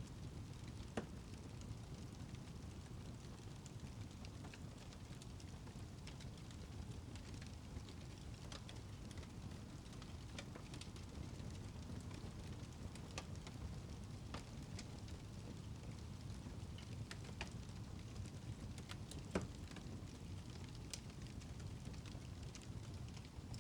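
Wood fire in a fireplace burning, with a low steady rumble of flame and scattered small crackles. One louder pop comes about three-quarters of the way through.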